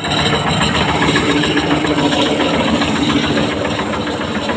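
A fishing boat's diesel engine running steadily, with a fast, even low throb and a held hum.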